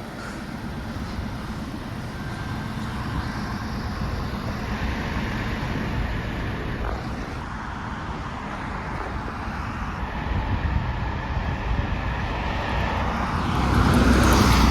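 Truck engine running steadily with a low rumble, getting louder near the end.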